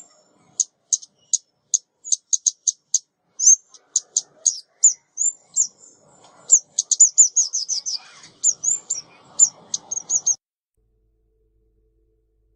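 Female ốc mít, a small songbird, giving a series of short, sharp, high chip calls, some sliding down in pitch, from a decoy call recording used to lure birds. The notes quicken into a fast run about seven seconds in and stop about ten seconds in.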